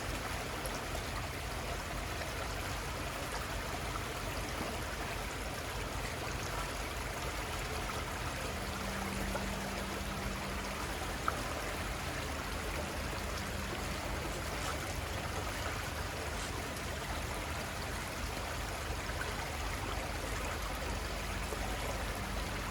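Little Conestoga River flowing, a steady, even rush of water.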